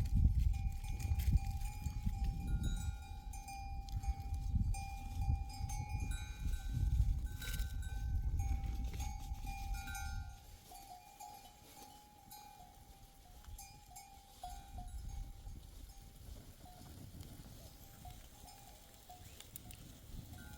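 Bells on grazing sheep and goats ringing over and over. A heavy low rumble in the first half stops about halfway through, leaving the bells fainter.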